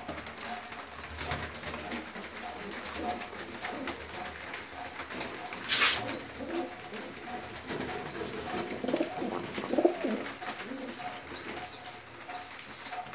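Fancy pigeons cooing: overlapping low calls throughout. A short, loud burst of hiss comes about six seconds in, and short high chirps repeat through the second half.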